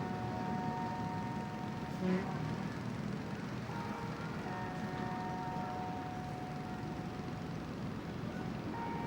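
Steady low rumble of distant city traffic, with thin, steady high tones that come and go and a short, louder sound about two seconds in.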